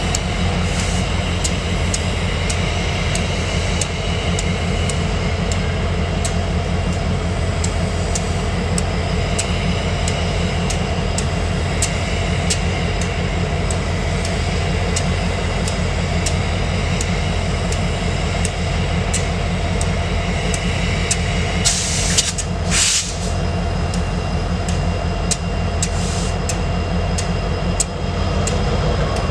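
Freight train rolling past close by: a steady heavy rumble with evenly spaced clicks from the wheels. A brief loud hiss comes about three-quarters of the way through.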